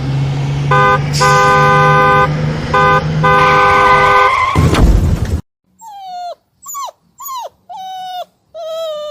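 A car horn honks twice, long held blasts over engine and road noise, ending in a loud rushing noise about five seconds in. Then a puppy whimpers and yelps about six times, each cry falling in pitch.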